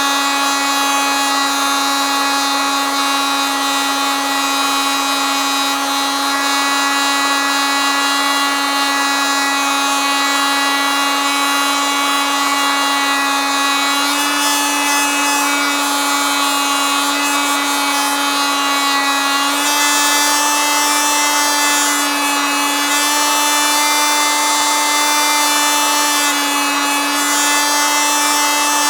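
Oscillating multitool running continuously with a loud, steady buzzing drone; its pitch steps up slightly about halfway through and again a few seconds later.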